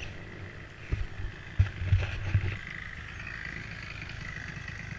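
A vehicle engine running, its whine wavering up and down in pitch, with several heavy low thumps in the first half.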